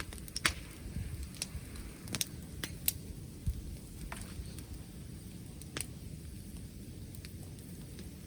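Wood bonfire crackling, with about ten scattered sharp pops, the loudest near the start and about three seconds in, over a steady low rumble of wind.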